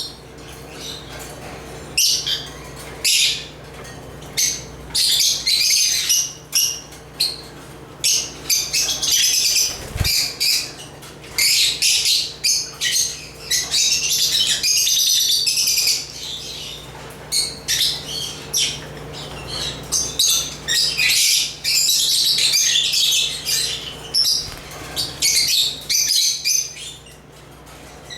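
African lovebirds chirping and twittering in quick high-pitched runs, several birds calling over one another with short pauses between bouts. A faint steady hum lies underneath, and a brief low thump comes about ten seconds in.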